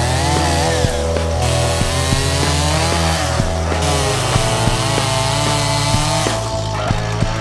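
Stihl MS 250 two-stroke chainsaw with a freshly sharpened chain running at high revs and cutting firewood logs, its pitch dipping and rising as it bites into the wood. Background music with a steady beat plays underneath.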